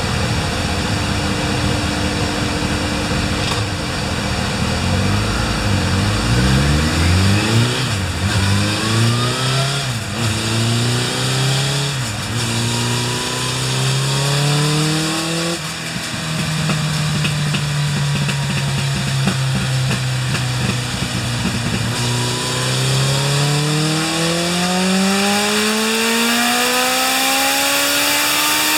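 Suzuki GSX1100S Katana inline-four engine on a rear-wheel power check: it revs up and drops back several times, holds a steady note for a few seconds, then climbs in one long rising pull at full throttle toward high revs. The engine is due for an overhaul and runs out of breath at high revs, making only 87 ps at the rear wheel.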